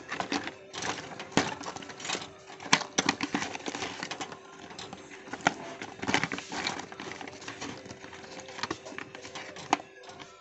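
Irregular clicks, taps and knocks of small tools and phone parts being handled on a work surface while a Meizu M8 phone is being repaired, over a faint steady hum.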